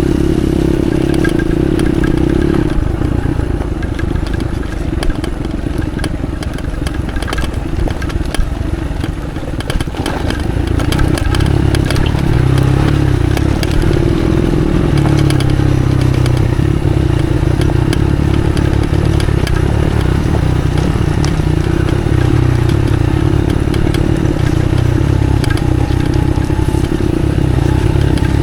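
Off-road motorcycle engine running steadily under load on a slippery track, dipping for a few seconds and then pulling louder from about ten seconds in, with a running clatter of the bike's chassis and scattered sharp knocks.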